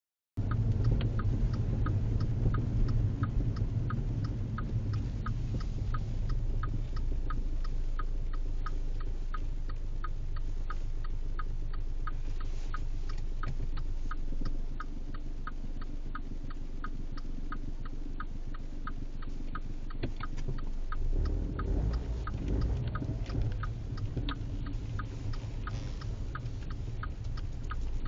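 Low engine and road rumble heard from inside a moving car, with a turn signal clicking steadily at about two clicks a second. The rumble swells a little about three quarters of the way through.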